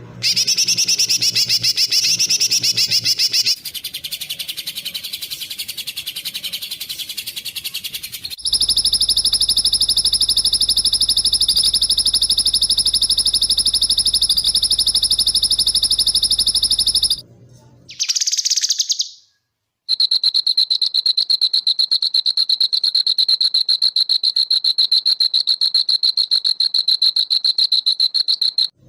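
Songbird-training (masteran) recordings of rapid, high-pitched pulsed trills, cut together one after another. A warbling trill runs for about three seconds, then a softer one. A long, very steady buzzing trill lasts about nine seconds, then comes a short burst, then another long steady trill.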